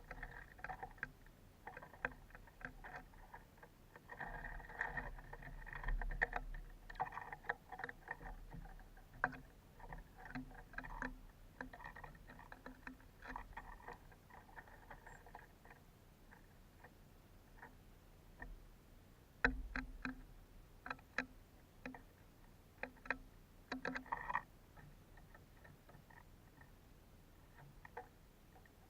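Irregular clicks and knocks with light rattling, coming in clusters, with the sharpest knocks about twenty seconds in.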